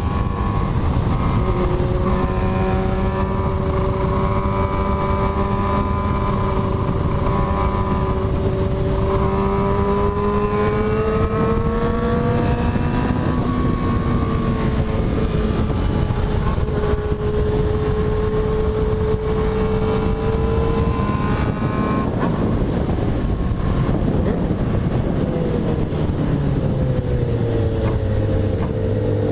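Motorcycle engine running under way at fairly steady revs, its pitch rising and falling slowly with the throttle and dropping in steps near the end, over steady wind and road noise.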